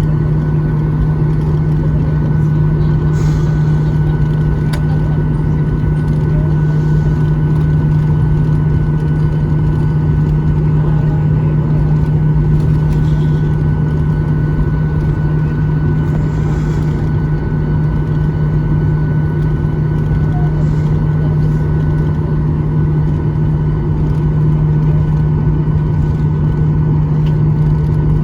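Steady drone inside a Boeing 737-800 passenger cabin: a strong low hum with a few faint, thin, steady whining tones over a noise bed, holding an even level throughout.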